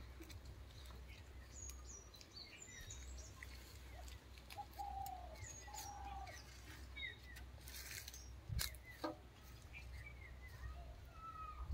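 Birds chirping and calling faintly, many short whistled notes, some rising and some falling, scattered throughout, over a low steady hum, with a couple of brief sharp clicks a little past the middle.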